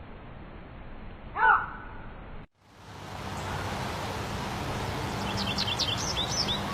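A single loud animal call about one and a half seconds in, then a sudden cut to a moment of silence. A steady noisy background follows, with a bird's rapid series of short, high chirps near the end.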